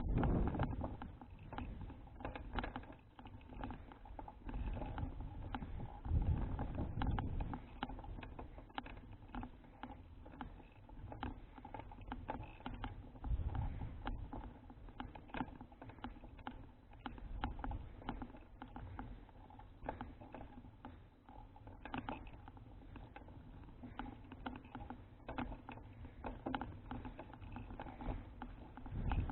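Riding noise from a folding bicycle: wind rumbling on the microphone in uneven gusts, with frequent small rattles and clicks from the bike over the road.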